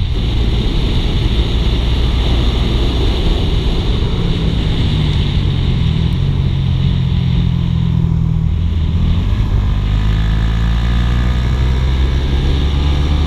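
Suzuki GSX-R150 motorcycle riding along, its single-cylinder engine running steadily with the pitch shifting a few times as the throttle changes, over a loud rumble of road and wind noise.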